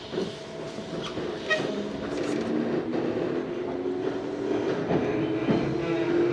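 Tobu 634-type electric train running, heard from inside the car. A motor and gear whine rises steadily in pitch and the running noise grows louder as the train picks up speed, with occasional rail-joint knocks.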